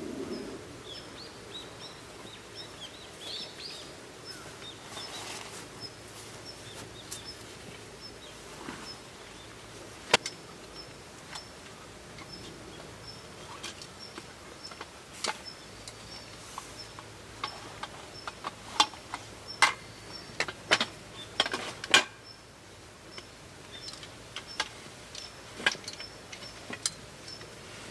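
Outdoor ambience with a faint, high chirp repeating about twice a second, and scattered sharp clicks and knocks that come more often in the second half.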